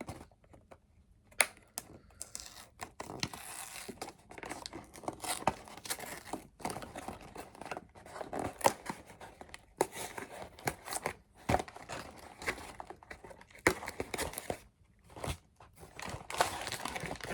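Cardboard snack box being torn open at its tab, with irregular ripping, clicks and crinkling of the packaging as the bars inside are handled.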